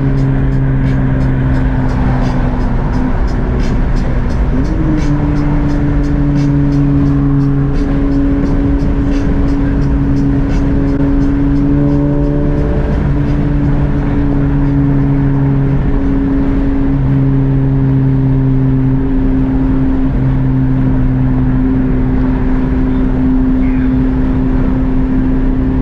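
Car driving at a steady speed with a constant road and engine rumble, and music playing over it: a regular beat ticking about two to three times a second and held bass notes that change every few seconds.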